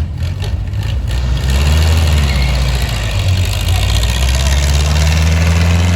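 Old hot rod's engine running loud and steady close by, swelling about a second and a half in and then holding a low, even note.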